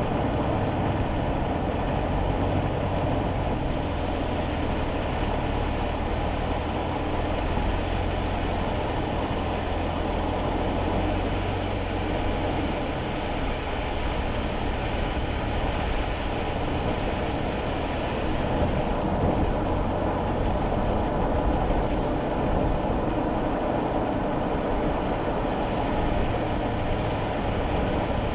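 A kei car driving on a wet road, heard from inside the cabin: a steady rumble of engine and tyre road noise. The low engine hum is strongest at first and eases off about two-thirds of the way through, as if the car slows or lifts off the throttle.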